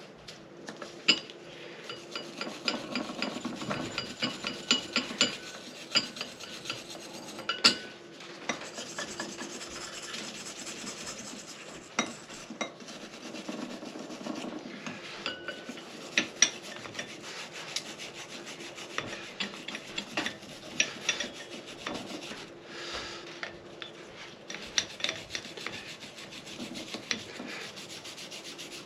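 Continuous hand rubbing or scraping on hard parts, with frequent light clicks and clinks throughout.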